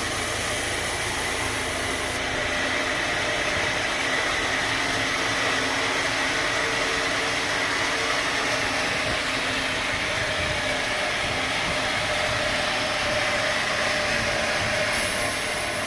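Sawmill machinery running steadily: a continuous mechanical drone with a thin steady whine over it.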